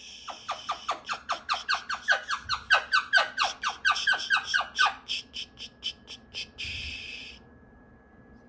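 Pet cockatoo calling in a rapid run of short chirps, each sliding down in pitch, about five a second for some five seconds, then tailing off into a brief raspy hiss.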